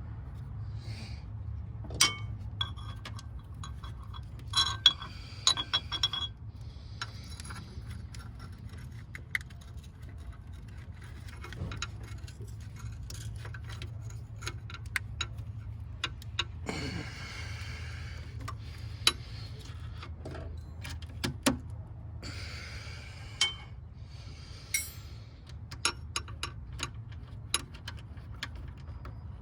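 Hand tools and metal parts clinking and clicking irregularly as fasteners and parts are handled during reassembly, with a few short scraping swishes, over a steady low hum.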